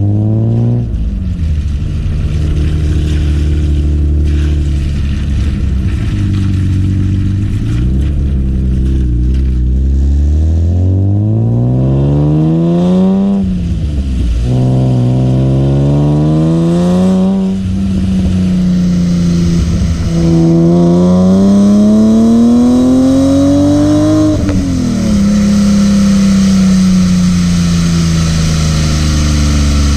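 BMW E36 M3's S50B30 straight-six engine revving hard, its pitch climbing and then dropping sharply several times as the throttle comes off, and falling away slowly near the end.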